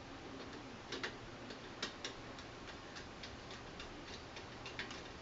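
Faint, light clicks, about four a second and not quite even, as the neutral wire is fastened to a terminal on the controller's circuit board with a small screwdriver.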